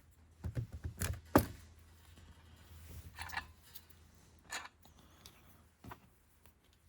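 Small metal engine parts (nut, washer, gear and collar) clinking and knocking as they are handled and set down. There are a few sharp clicks in the first second and a half, the loudest about a second and a half in, then softer taps and rustling.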